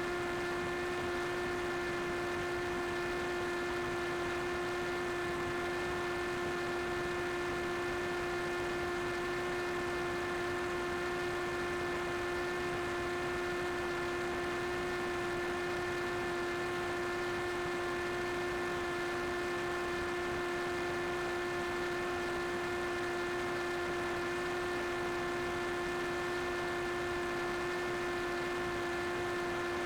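A steady hum held at one pitch with a string of overtones, unchanging in pitch and loudness, over a faint hiss.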